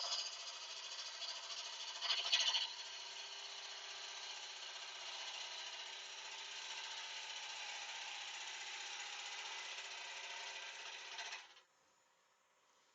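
Wood lathe running with a turning gouge cutting into a spalted beech blank, truing a roughly cut piece into round. The cut gets louder for a moment about two seconds in, and the sound stops suddenly near the end.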